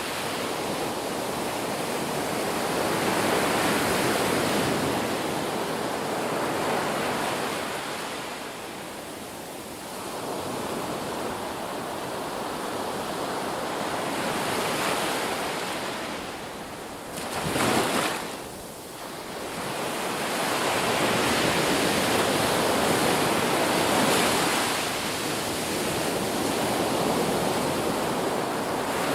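Ocean waves washing ashore, the surf swelling and ebbing every few seconds, with one brief, sharper, louder wash a little past the middle.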